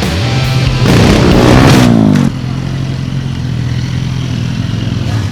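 A motorcycle engine revved hard about a second in, its pitch falling as it drops back just after the two-second mark, over rock music.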